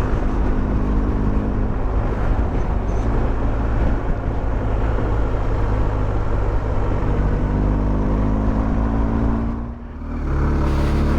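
Motorcycle engine running at a steady road speed under a constant rush of wind noise. Near the end the engine note drops away briefly, as when the throttle is closed or a gear is changed, then picks up again.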